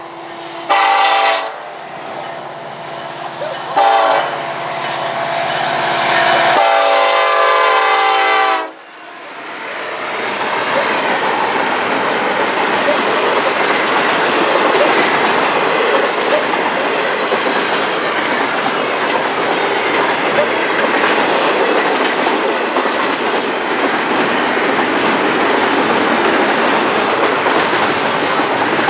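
Union Pacific diesel locomotive's air horn sounding two short blasts and then a longer one as the train approaches. The locomotives then pass, followed by a steady rumble and clatter of double-stack intermodal container cars rolling by at speed.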